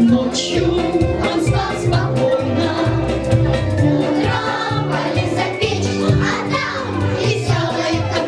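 Children's choir singing a lively song over instrumental accompaniment with a steady, rhythmic bass beat.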